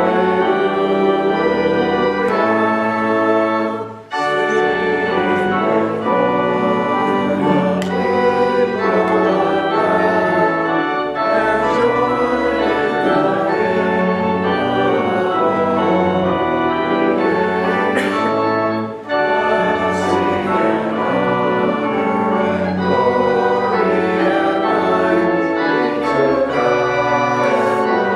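Church organ playing sustained full chords for a sung liturgical canticle, with congregational singing under it. The music breaks off briefly between phrases twice, about four seconds in and again just before the middle.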